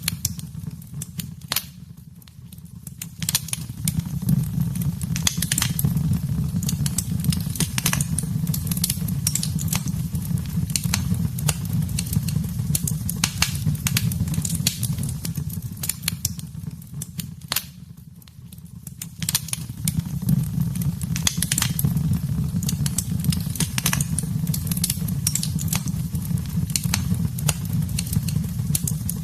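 Wood fire in a fireplace crackling and popping, with frequent sharp snaps over a low steady roar of the flames. The roar fades briefly twice, a couple of seconds in and again about two-thirds of the way through.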